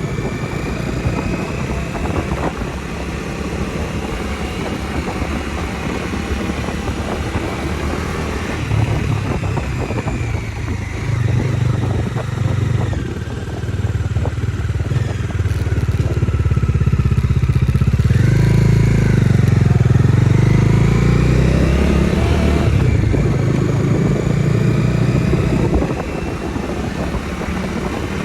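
Bajaj Dominar 250's single-cylinder engine running under way, its pitch rising and falling with the throttle. About eighteen seconds in its note steps down and then climbs again, and it is louder for several seconds before easing off.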